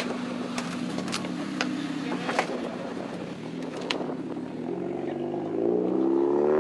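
Car engine running steadily, then rising in pitch and getting louder over the last two seconds as the engine speeds up. Several sharp clicks in the first half.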